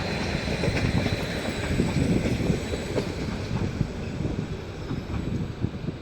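A train moving along the track: a steady rumble of wheels and cars, with scattered rail clicks and a faint high tone above it, easing slightly near the end.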